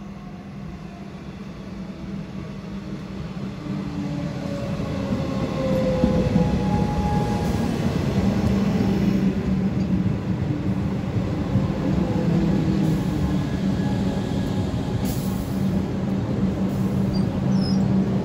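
Melbourne Metro electric suburban train pulling into a station platform and slowing, growing louder for the first several seconds. Falling whines come as it brakes, then a steady low hum as it rolls slowly alongside.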